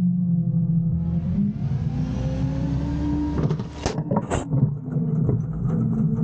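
An Autocar garbage truck's diesel engine revs up as the hydraulics work to dump a bin, its pitch rising for a couple of seconds. A burst of metal clanks and bangs from the bin follows about four seconds in, after which the engine settles lower.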